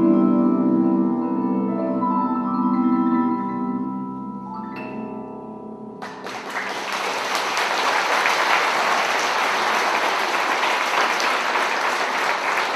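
Closing chord of a jazz ensemble with vibraphone, its notes ringing and slowly fading, with one last struck note just before the music stops. Audience applause breaks out about halfway through and continues.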